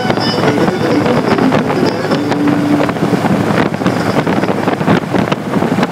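Wind rushing over the microphone and road noise from a motorcycle riding at speed, with a short steady tone about two seconds in.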